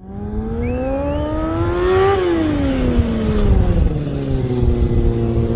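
A motorcycle engine cuts in suddenly and revs up for about two seconds. It then eases back down and settles at a steady lower pitch.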